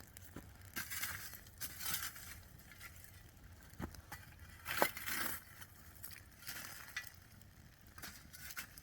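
Irregular crackles, clicks and crunches around a campfire with potatoes cooking in its coals. The sharpest click comes about five seconds in.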